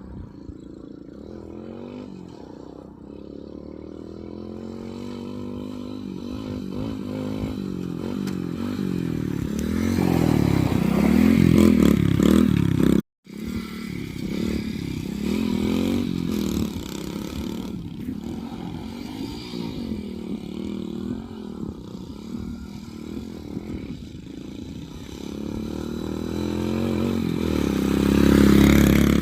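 Motorcycle engine running and revving while being ridden off-road, its pitch rising and falling with the throttle. It grows loudest about twelve seconds in and again near the end, and the sound drops out completely for a split second just after the first peak.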